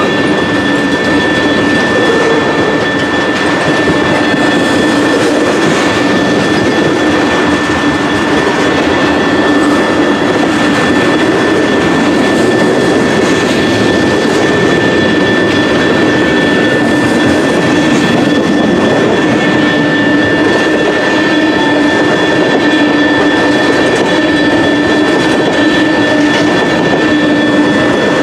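Freight train of tank cars rolling steadily past: a continuous rumble and rattle of steel wheels on the rails, with a steady high tone ringing through it.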